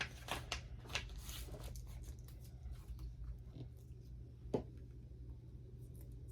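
Soft paper handling as a magazine cutout is laid and pressed onto a sketchbook page: light rustles and clicks, most of them in the first second and a half, and a single sharper tap about four and a half seconds in.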